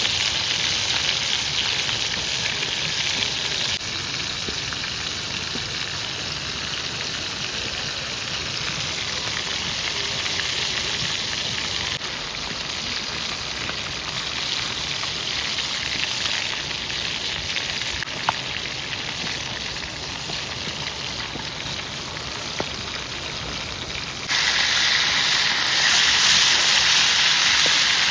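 Food sizzling as it fries in oil: a steady hiss that jumps in level a few times, with a couple of brief sharp ticks.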